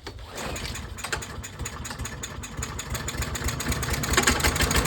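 Troy-Bilt TB200 lawnmower's small engine catching and running on starter fluid sprayed into the air intake, the firing getting louder as it goes. It runs only on the starter fluid, a sign that the carburetor is not passing fuel, most likely because it is clogged.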